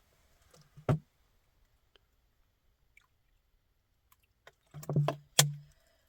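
Three sharp knocks, one about a second in and two in quick succession near the end, with a few faint clicks between.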